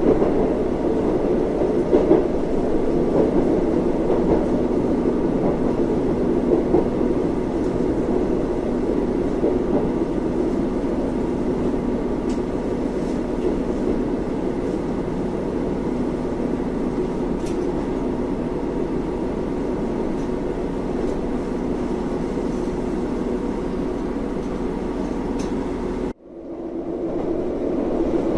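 Steady engine and running noise of a diesel local train heard from inside the carriage. Near the end the sound cuts out abruptly and swells back in.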